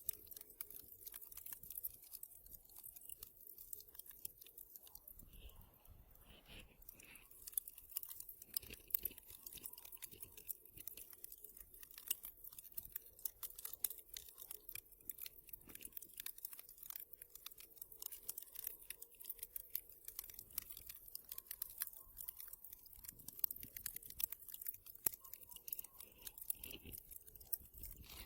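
Wood fire crackling: a dense, irregular run of small crackles and snaps, with a few louder pops scattered through.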